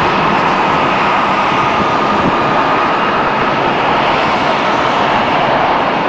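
Boeing 777 landing: a loud, steady roar of jet engine and rushing air with a faint high whine.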